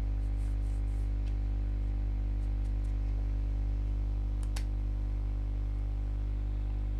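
Steady low electrical hum with a few faint computer mouse clicks.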